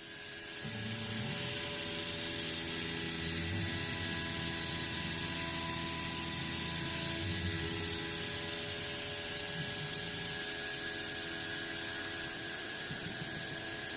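Milling machine running, cutting facets along a metal shaft: a steady motor hum and whine over a hiss of cutting noise, with a lower wavering rumble from about a second in until about eight seconds.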